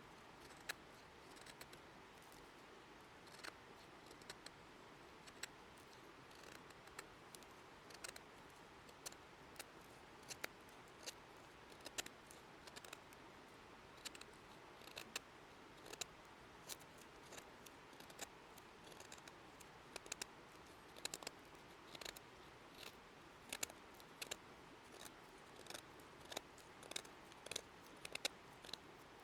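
Irregular sharp clicks and snaps, about one or two a second, over a faint steady hiss.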